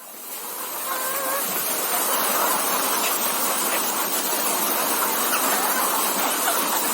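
A flock of caged layer hens clucking and calling over a steady, dense noisy din, with a few short, clearer hen calls about a second in.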